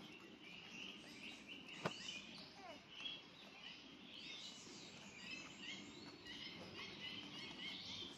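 Faint outdoor ambience with small birds chirping, short high chirps scattered throughout, and one sharp click about two seconds in.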